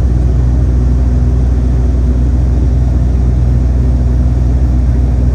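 Cabin noise of a Dash 8 turboprop airliner: the engines and propellers drone loudly and steadily, with a low, even hum.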